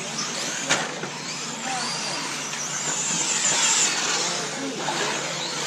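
Several 1/8-scale nitro RC truggy engines running at high revs, their whines rising and falling over one another as the trucks accelerate and brake around the track. There is one sharp knock about a second in.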